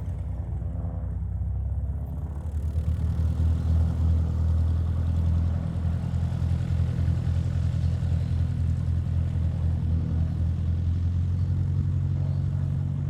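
Cessna 150G's four-cylinder Continental O-200 engine running steadily with a pulsing low drone. It gets louder about three seconds in, and its pitch rises slightly near the end.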